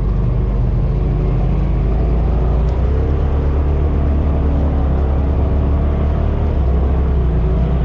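Polaris RZR side-by-side engine running steadily as the machine drives along a dirt trail, its pitch shifting slightly about three seconds in.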